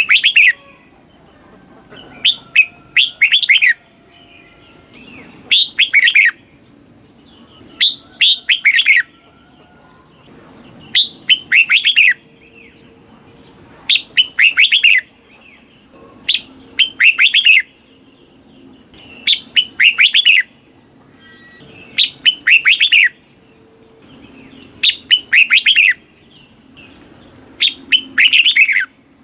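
Red-whiskered bulbul singing: a loud, short phrase of quick whistled notes, repeated about every two and a half to three seconds, some eleven times.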